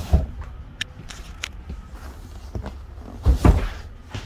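Furniture being handled and set in place: a thump at the start, a few sharp clicks, then a heavier double thump about three and a half seconds in.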